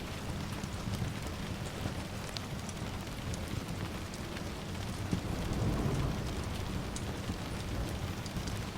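Steady rain with scattered small crackles. A low rumble of distant thunder swells a little past halfway and fades again.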